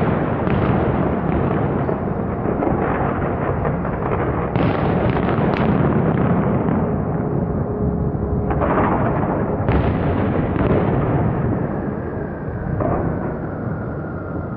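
Fireworks display at full volley: a dense, continuous barrage of bangs and crackling. It thins out and dies away over the last couple of seconds as the show ends.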